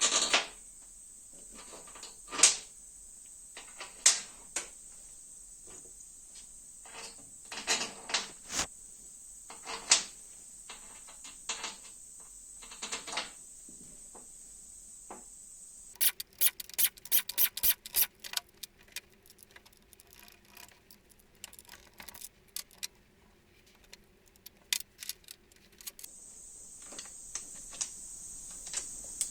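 Clicks, clinks and knocks of hand tools and metal engine parts being handled during a motorcycle engine teardown, irregular and spaced a second or two apart. About halfway through comes a quick run of clicks close together.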